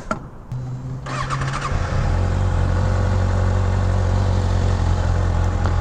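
Kawasaki Ninja ZX-6R's inline-four engine starting about half a second in and idling briefly. The bike then pulls away and runs steadily, with wind rushing past.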